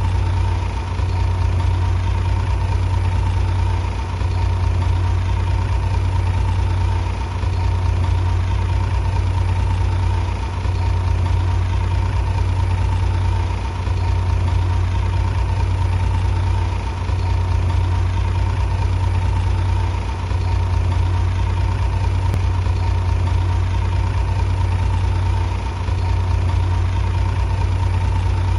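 Heavy machine engine running steadily: a loud, low drone that dips slightly about every three seconds.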